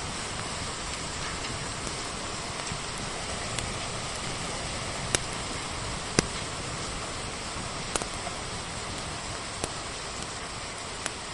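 Steady hiss of rain, with a wood fire crackling over it in scattered sharp pops, the loudest two about five and six seconds in.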